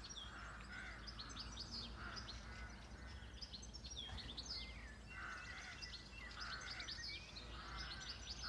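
Several songbirds chirping and singing: rapid high chirps mixed with a lower warbling phrase that repeats every second or so, over a faint low rumble.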